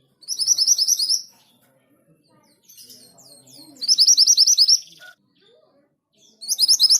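Orange minivet singing: three quick bursts of about eight to ten rising whistled notes each, every burst about a second long and roughly three seconds apart.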